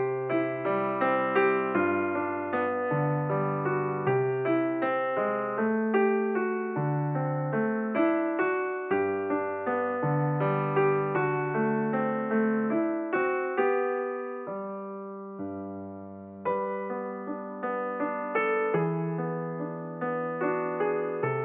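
Background music on piano or electric piano: a gentle, steady run of notes over low bass chords, easing to a held chord about two thirds of the way through before picking up again.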